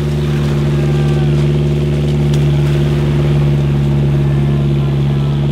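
Car engine held at high revs, a loud, steady drone with no change in pitch, as the car is driven through deep mud.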